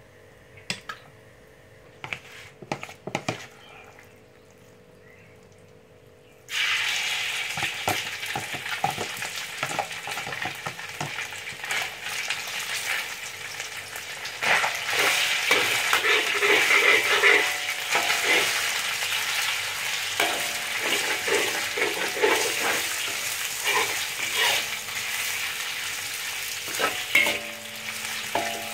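Chicken pieces going into hot oil in a wok: a few light knocks at first, then a loud sizzle starts suddenly about six seconds in and keeps going as the chicken fries. A spatula stirs and scrapes the pieces around the wok.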